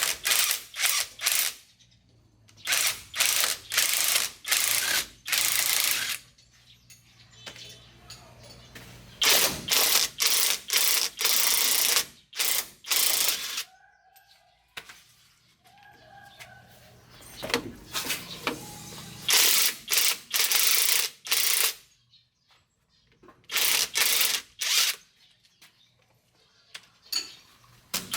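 A power wrench worked on truck fasteners, run in repeated short bursts grouped in clusters, with pauses between them.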